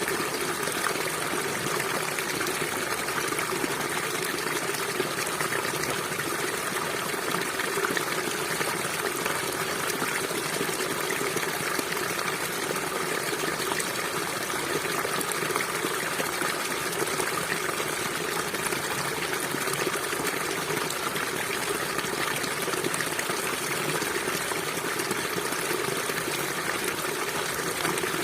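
River water flowing and gushing steadily, an even rushing without breaks.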